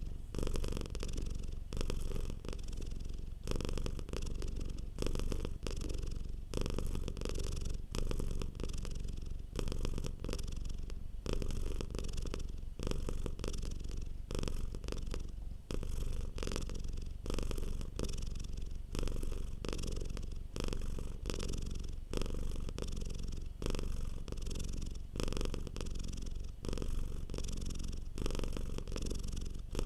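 Domestic cat purring steadily close to the microphone, swelling and easing in a regular rhythm with each breath in and out.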